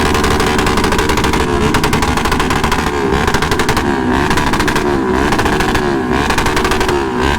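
Motorcycle engines running loudly with a rapid popping exhaust. The pitch dips and rises about once a second.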